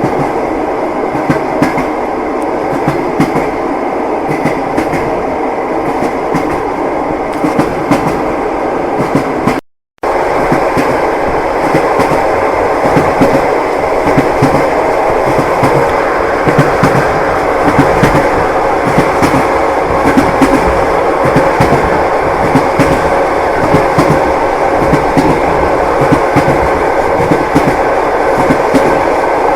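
Passenger train running on rails: steady rumble with the clatter of wheels over rail joints. About ten seconds in it drops out for a fraction of a second, then resumes slightly louder.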